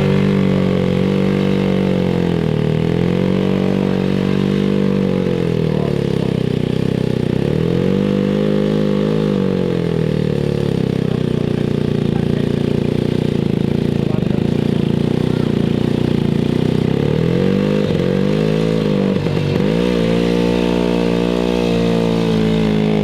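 WW2-era motorcycle engine running hard while labouring in mud, its revs sagging and picking back up about three times.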